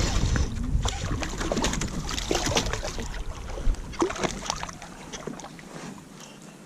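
Water splashing and short knocks around a kayak, growing fainter and sparser until near the end only a low background is left.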